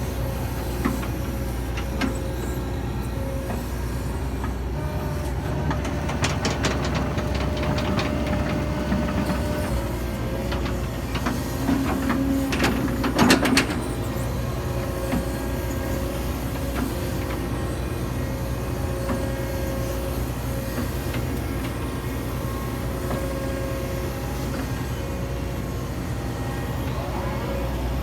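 Hitachi 135US excavator running steadily under load while it tracks up a slope, with clicks and clanks from the tracks and hydraulics. About thirteen seconds in comes a louder cluster of sharp metallic knocks.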